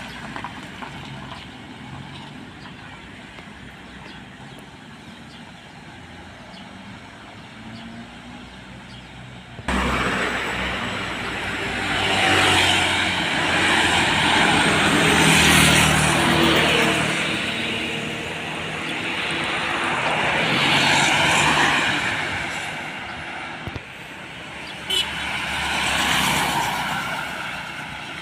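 Heavy road traffic, trucks and buses driving past one after another, engines and tyres swelling up and fading away as each goes by. Quieter for about the first ten seconds, then the level jumps suddenly and four passes follow.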